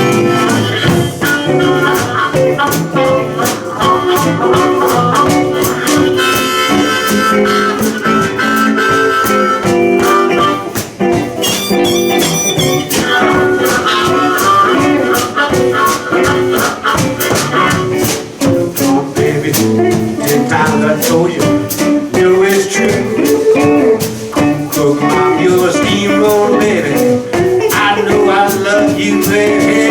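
Blues band playing live: harmonica playing lead over guitars and a steady drum beat.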